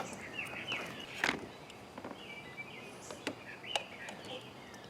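Birds chirping in the background, with a few sharp clicks and taps from hand tools working on the engine, the loudest about a second in.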